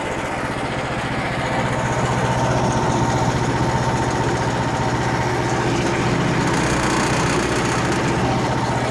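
Engine running steadily at a constant speed, its level rising a little about two seconds in and holding.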